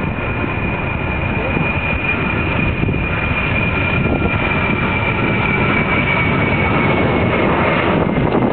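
Boeing 747 LCF Dreamlifter's four turbofan jet engines running at high thrust during take-off: a loud, steady roar with a high whine that slowly falls in pitch.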